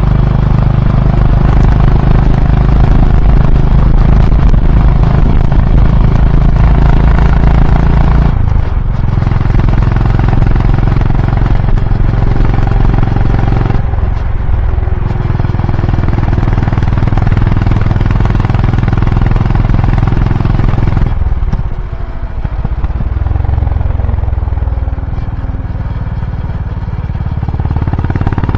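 Honda H'ness CB350's air-cooled single-cylinder engine and exhaust running while the bike is ridden. The note dips briefly about a third of the way in and again near the middle, drops off more at about three quarters, then builds again near the end.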